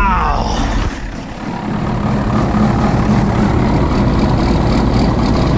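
Log loader's diesel engine catching and running: a brief whine right at the start, a dip in level about a second in, then steady running from about two seconds in.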